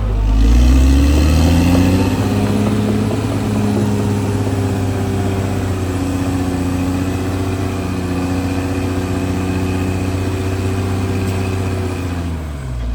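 CAT D6R XL bulldozer's diesel engine running under load: its pitch climbs in the first second, holds steady, then sags briefly near the end and climbs again. A faint high whine runs alongside.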